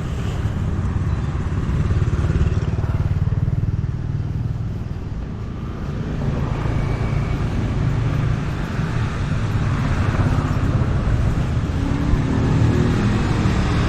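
Street traffic: motorbikes and cars running past in a steady low rumble that swells in the middle of the stretch.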